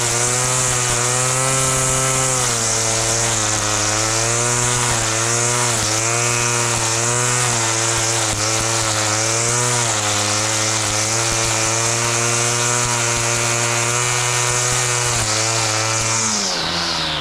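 Small petrol engine of a grass-cutting machine running at high revs, its pitch wavering up and down as it works, then dropping as it throttles back near the end.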